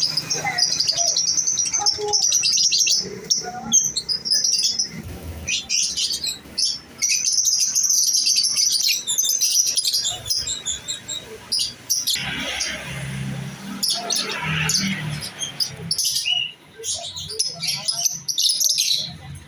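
Lovebirds chirping rapidly and shrilly, in runs of high chirps broken by short gaps.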